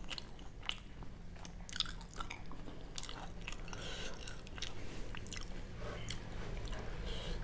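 A person chewing food close to the microphone, with small wet mouth clicks and a few crunches, over a faint steady low hum.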